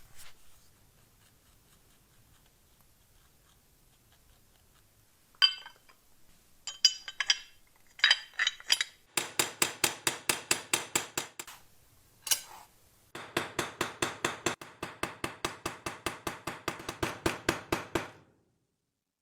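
A few scattered metallic clinks, then two runs of rapid, evenly spaced metallic clicking lasting a few seconds each, like a ratchet or a small metal mechanism being worked.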